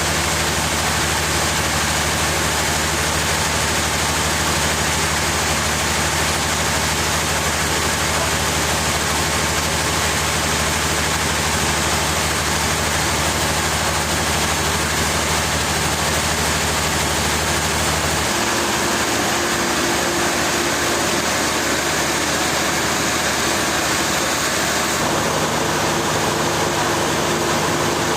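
Heavy machinery running steadily with a low engine hum. About 18 seconds in, the low hum drops away and a steady, higher tone takes over.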